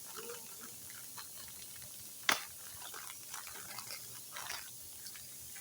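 Faint rustling and handling of an instant ramen noodle package being opened, with one sharp click about two seconds in.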